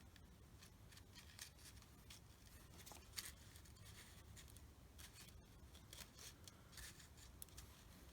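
Near silence with faint, irregular light rustles and clicks of paper being handled.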